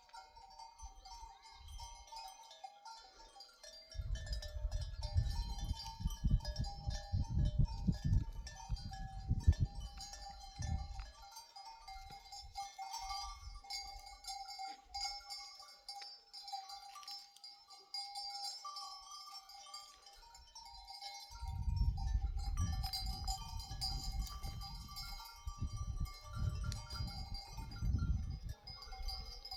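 Bells on a grazing flock of sheep clinking and ringing, with occasional bleats. A low rumbling noise comes in twice, for several seconds each time.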